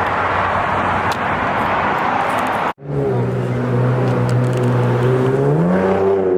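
Steady road or traffic noise, then after an abrupt cut a motor vehicle's engine running at a steady pitch that rises briefly near the end.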